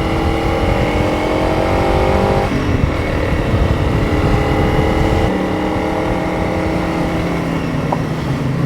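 Single-cylinder engine of a Honda CRF 300 Rally motorcycle under way uphill: the engine note climbs under acceleration, drops as it shifts up about two and a half seconds in, then runs steady. Wind buffets the microphone throughout, easing about five seconds in.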